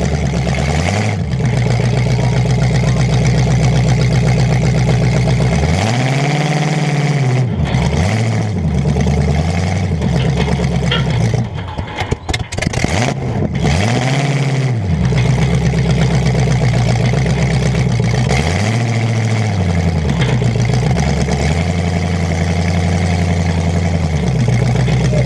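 Demolition derby car's engine revving up and down over and over, heard from a camera on its hood. About halfway through it comes off the throttle with a few sharp pops, as a flame shoots from the hood.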